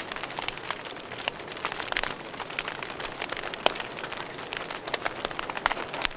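Wood fire burning in a fireplace, crackling steadily with irregular pops and snaps, one louder pop a little past halfway.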